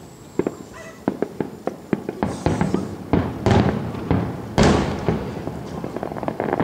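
Fireworks display: a quickening run of sharp bangs and pops, with two bigger bursts about three and a half and four and a half seconds in, then dense crackling near the end.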